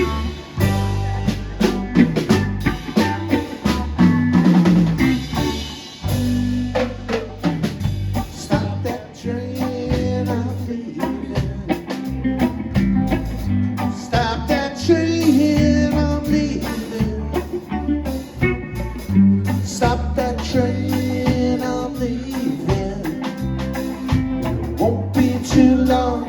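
Live band playing the instrumental intro of a song: electric guitars, bass guitar and a drum kit keeping a steady beat.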